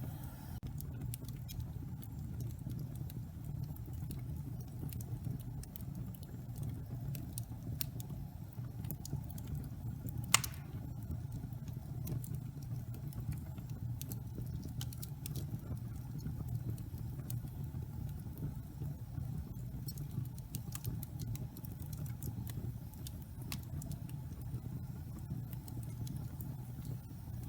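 Log fire burning in a fireplace: a steady low rumble of the flames with scattered crackles and one loud pop about ten seconds in.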